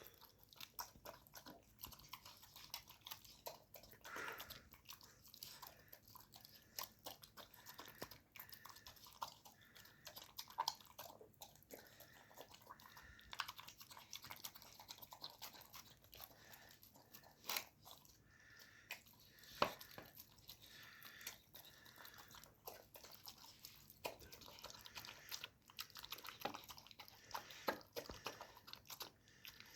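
A dog chewing canned dog food: a continual run of small, faint chewing clicks and smacks, with a couple of louder ones past the middle.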